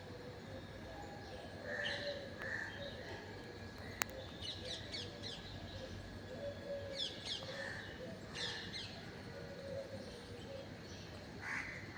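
Outdoor birdsong: small birds chirping in quick short series, with a few harsher calls including a crow cawing near the end. A single sharp click about four seconds in.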